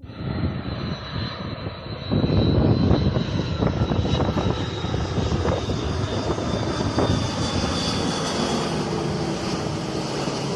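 Airliner's engines on final approach, passing close by. The rumble starts suddenly, swells louder about two seconds in, and a high whine slowly falls in pitch as the aircraft goes past.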